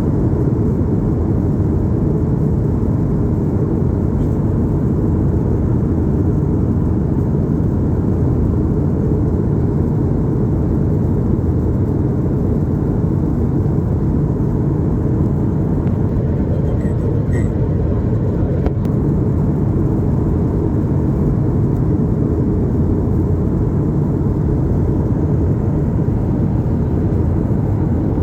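Steady, unbroken low rumble of a vehicle in motion, heard from inside.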